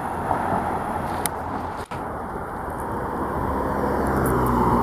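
Road traffic passing on a busy highway: a steady wash of tyre and engine noise, with one vehicle's engine hum growing louder in the second half.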